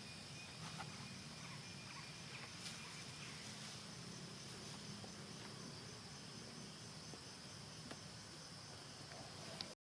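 Faint steady chirring of insects, crickets or similar, a continuous high buzz with a fine regular pulse, with a few soft clicks over it. The sound cuts out abruptly for a moment at the very end.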